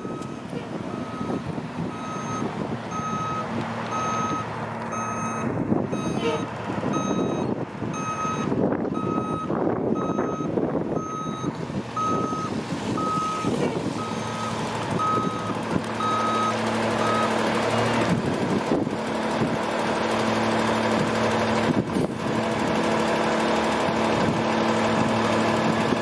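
Garbage truck's reversing alarm beeping steadily, a little more than once a second, until about 17 s in, over the truck's diesel engine running. The engine keeps running after the beeping stops, getting slightly louder.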